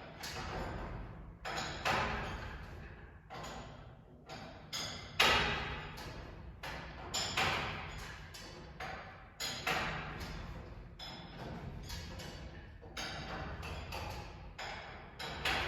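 A run of irregular knocks and bangs, about one or two a second, each with a short ringing tail, like metal parts being struck or handled.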